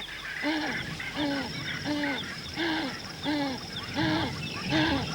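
Ground hornbills booming: a steady series of deep, arched hooting calls, seven in a row, about one every two-thirds of a second. A high continuous insect trill and small bird chirps sound behind them.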